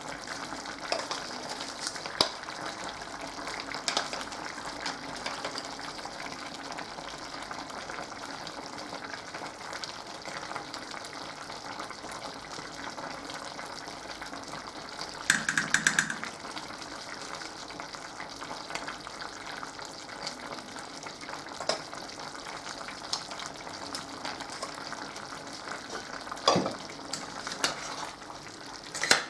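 Food sizzling steadily in a frying pan, with occasional clicks of a utensil against the pan and a brief louder metallic clatter about halfway through.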